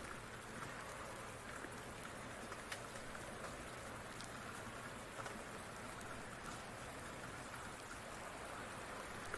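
Steady rain falling, with sharp crackles from a wood fire scattered throughout.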